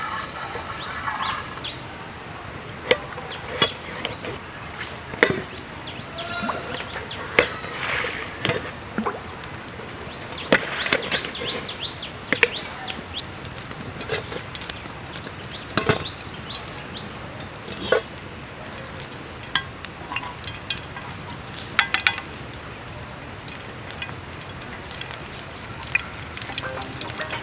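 Irregular sharp knocks and clicks, about one or two a second, from cooking at an outdoor camp, over the steady rush of a creek's running water.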